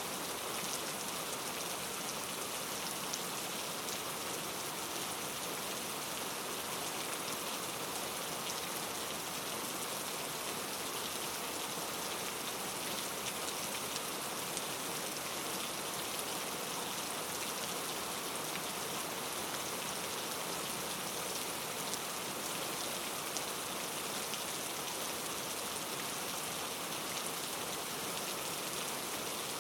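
Steady rain falling: an even, unchanging hiss with a fine patter of individual drops.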